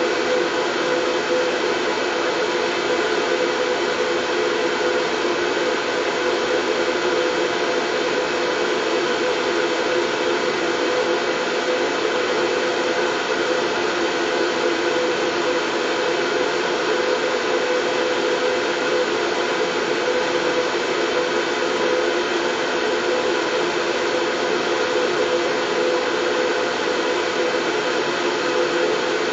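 Steady white noise for soothing a baby: a constant, even rush with a slightly humming low-middle band, unchanging throughout.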